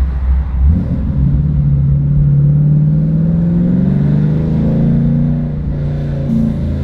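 2015 Chevrolet Camaro 1LE engine and exhaust accelerating, its pitch climbing steadily for a few seconds before easing off near the end.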